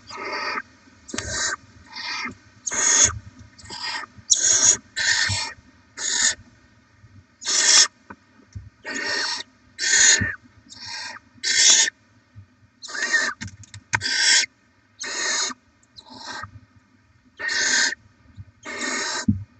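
Barn owl chicks' begging calls: harsh, hissing snore-like calls, one every second or so and uneven in spacing.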